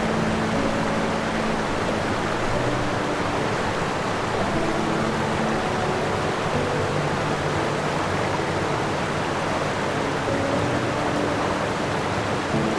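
A steady, even rushing noise with faint background music beneath it. The noise cuts in just before the start and stops just after the end.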